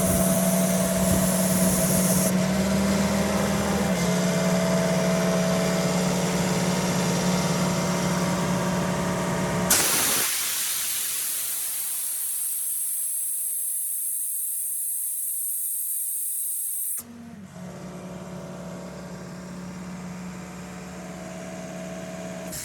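Kaeser M 50 PE mobile compressor running on its Kubota V1505-T four-cylinder diesel with a steady hum. About ten seconds in, the engine sound gives way to a loud, steady hiss of compressed air blowing off. The hiss cuts off suddenly near 17 seconds, and the running hum returns, quieter.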